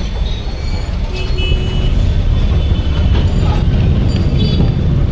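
Loud, steady low rumble of a vehicle in motion, with faint high tones above it.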